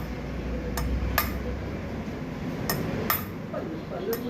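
Metal parts clinking and knocking as they are handled on a workbench, about five sharp strikes spread over a few seconds.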